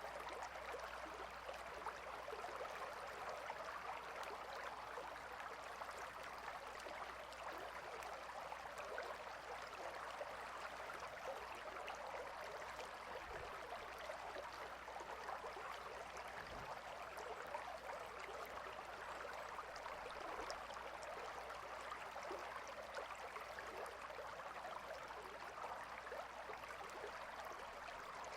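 A gentle river flowing: a steady, even rush of water.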